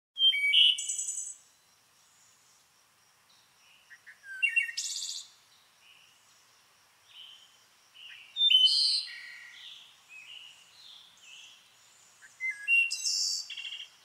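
Birds singing: a loud, rapid song phrase about every four seconds, with fainter chirps from other birds in between.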